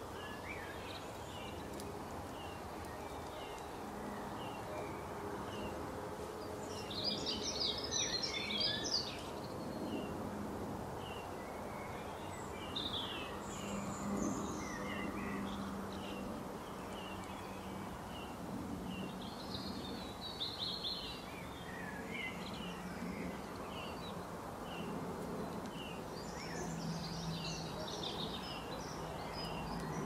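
Birds chirping in a steady string of short calls, with louder bouts of twittering song about a quarter of the way in, twice in the middle and again near the end, over a steady low hum.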